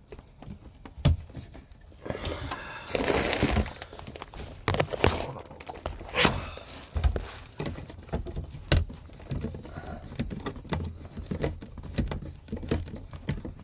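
Irregular knocks, clicks and thumps from things being handled inside the small truck-camper room, with a stretch of rustling or crinkling about two to four seconds in.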